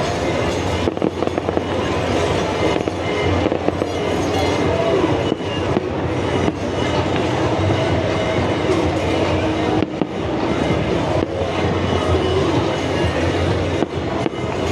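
Fireworks bursting over a steady, dense rumble of fairground noise, with a low hum underneath.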